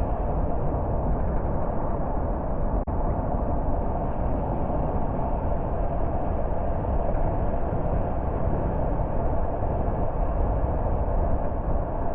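Steady road noise of a car driving: tyre rumble and engine hum, with a momentary dropout about three seconds in.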